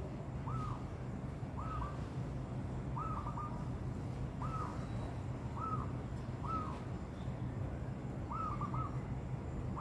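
Zebra doves calling: short, arched cooing notes repeated about once a second, some coming in quick runs of two or three, over a steady low hum.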